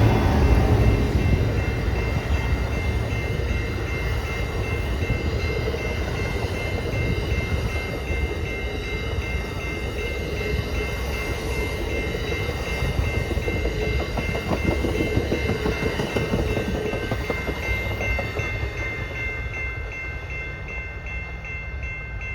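Amtrak Empire Builder passenger train rumbling through a grade crossing as it departs, its sound slowly fading as it moves off, while the crossing's bell rings steadily until it cuts off at the very end.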